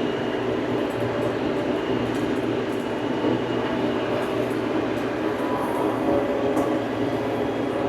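Old farm tractor's engine running steadily at work, a constant loud mechanical rumble with a few faint ticks and rattles over it.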